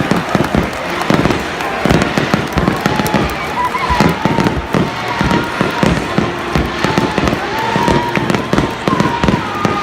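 Fireworks going off in rapid succession: a dense, continuous run of bangs and crackles with no pause.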